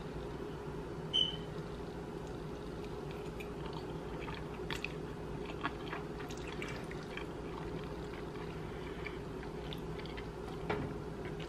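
Soft chewing and small wet mouth clicks of someone eating a forkful of pasta alfredo, over a steady low hum. A single short, sharp clink comes about a second in.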